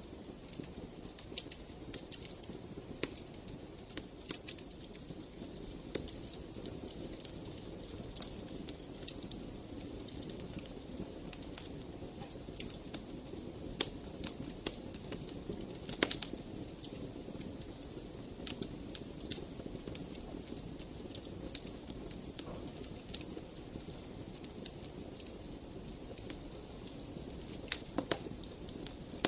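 Wood fire in a fireplace crackling, with irregular sharp pops over a steady low rumble of the flames; a few louder pops stand out.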